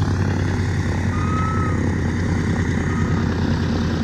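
C-47 twin-engine transport's two Pratt & Whitney R-1830 radial engines running steadily on the ground, a low propeller drone. Three short, faint whistles sound over it.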